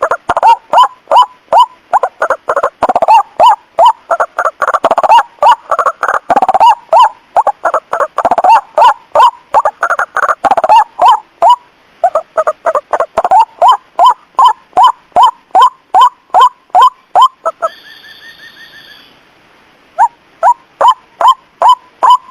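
White-breasted waterhen (ruak-ruak) calls as used for a night lure: loud, rapidly repeated short downward-sliding notes, about three a second, thicker and overlapping in the first half as if from more than one bird. They stop for about two seconds near the end, where a short higher-pitched tone sounds, then start again.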